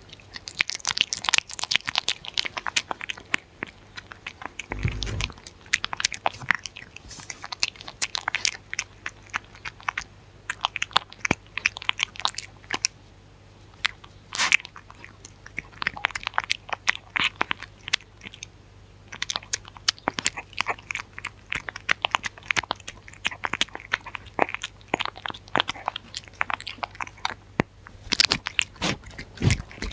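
A dog chewing and crunching food close to the microphone, in bursts of crisp crackling bites with short pauses between them. There is a low thump about five seconds in and another near the end.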